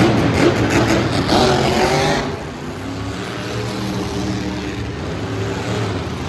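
Monster truck engine revving hard with its pitch climbing, then easing off about two seconds in to a lower, steadier run.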